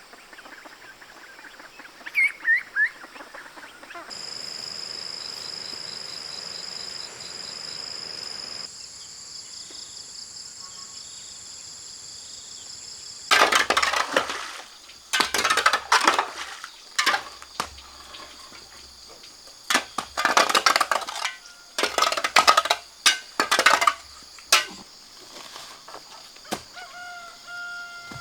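Farmyard chickens and a rooster calling, with a steady high buzz for a few seconds. In the second half comes a run of loud, irregular knocks or scrapes from work being done.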